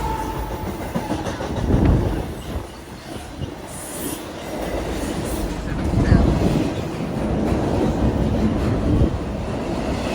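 Freight train rolling past: a steady rumble of wheels on rail, with louder swells about 2 and 6 seconds in.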